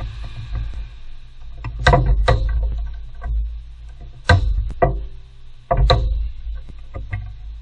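About six sharp knocks in irregular pairs, over a steady low hum.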